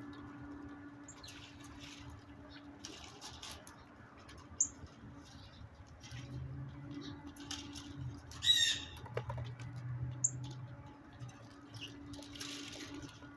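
Backyard birds: a few sharp, high chirps and one quick rattling call about eight seconds in, with short bursts of wing flutter.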